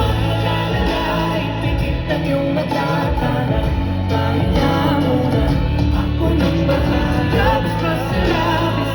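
Live pop music with singing over a concert sound system, a held bass line under the vocals.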